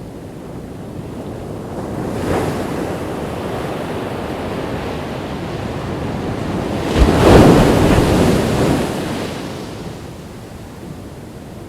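Ocean waves breaking on a beach: a smaller wave about two seconds in, then a louder crash about seven seconds in that washes out and fades, with wind noise on the microphone.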